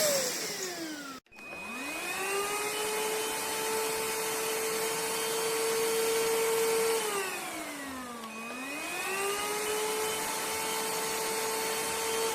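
Cordless stick vacuum motor (Solac Solution AE2545) whining. It winds down and cuts out about a second in, then spins back up to a steady whine. About seven seconds in it drops in speed, and a second or so later it climbs back to full speed.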